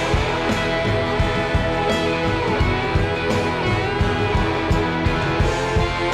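Bluesy rock recording in an instrumental passage with no singing: gliding, bending guitar notes over a steady drum beat.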